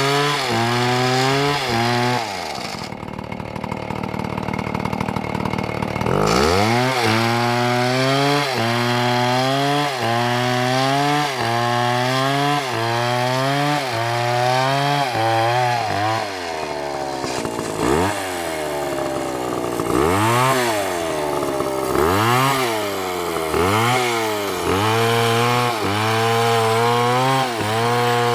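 Large two-stroke chainsaw running at high revs through a cut. Its pitch dips and recovers about once a second as the chain loads up in the wood. Early on it drops for about three seconds to a lower, rougher running before coming back up.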